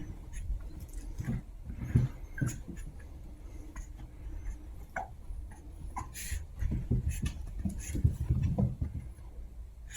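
Two Chihuahua puppies playing: scuffling, with soft thumps and scattered small clicks, and a few short high squeaks about halfway through.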